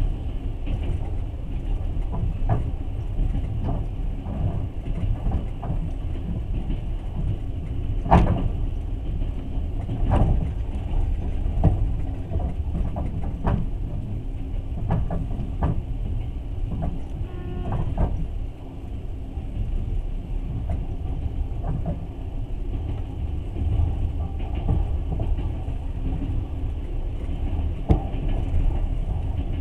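Passenger train heard from inside the carriage while under way: a steady low running rumble with irregular knocks and clanks from the wheels and car, the sharpest about eight seconds in.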